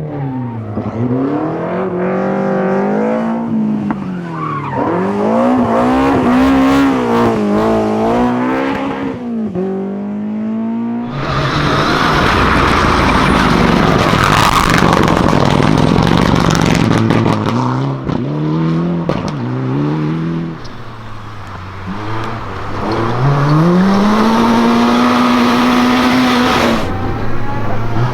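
Rally cars' engines revving up and down in quick succession, pitch climbing under acceleration and dropping on the overrun, with some tyre squeal. About eleven seconds in the sound changes abruptly to a louder, harsher, noisier car passage, after which single-car revving returns.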